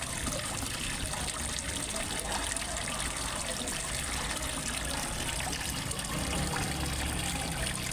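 Small waterfall trickling and splashing steadily into a fish pond.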